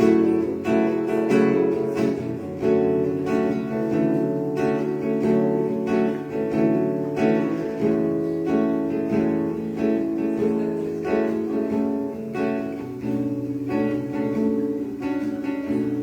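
Acoustic guitar playing an instrumental introduction, chords plucked and strummed in a steady rhythm, leading into a song.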